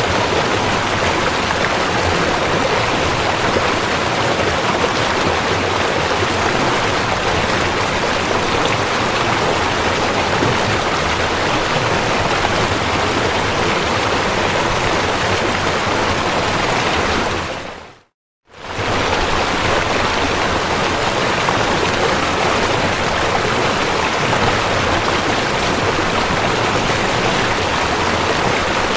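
Rushing river water, a steady loud rush. About two-thirds of the way through it fades out to silence for under a second and fades straight back in, as at a loop join.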